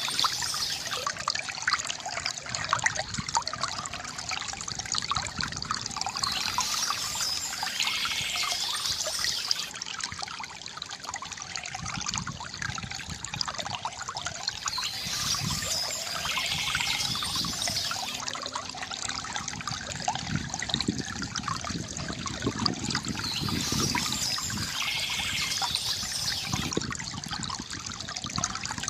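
Shallow stream trickling and splashing steadily, with a brief higher-pitched sound returning about every eight to nine seconds.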